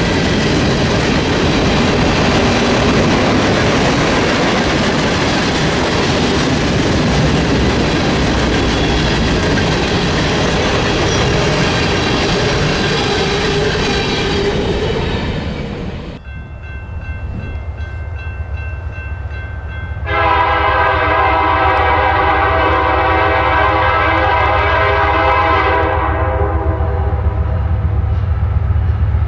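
A freight train rolling past, its cars giving a steady rumble and clatter of wheels on rail. This cuts off abruptly about 16 seconds in to a lower diesel locomotive rumble, and about 20 seconds in a locomotive air horn blows one steady blast of about six seconds.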